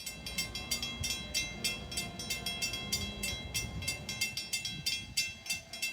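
Railroad grade-crossing bell ringing in rapid, even strikes as an LIRR train approaches, with the train's low rumble underneath.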